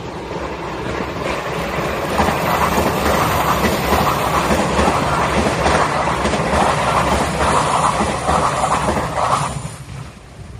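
A JR Shikoku 8600 series electric limited express train passing at high speed. The noise builds over the first two seconds, stays loud for about seven seconds, then drops off sharply near the end as the train clears.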